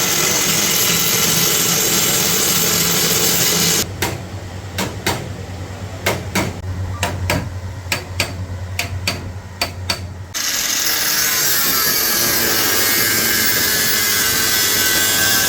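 A power tool working car body steel, running loud and steady, stops for about six seconds while a hammer taps the metal a dozen or so sharp times over a low hum, then starts up again.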